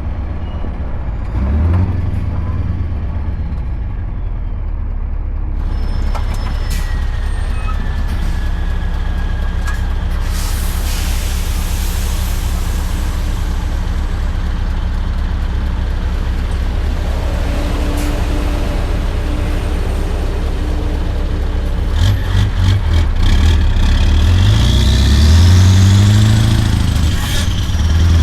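Scania R580 V8 truck engine with a straight-piped exhaust running under way, with a steady deep drone. In the last several seconds the engine pitch climbs and drops back repeatedly as it pulls up through the gears.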